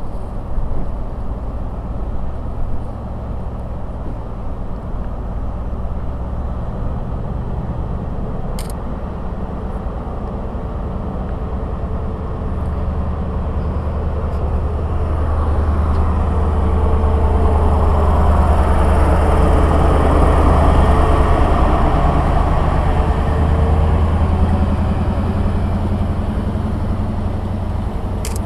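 A train running through the station, its sound swelling to a peak past the middle and then easing off, over a steady low drone.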